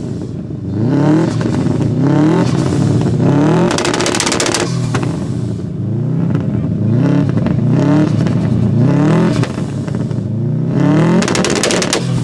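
Car engine being revved over and over, its pitch climbing in quick blips about once a second.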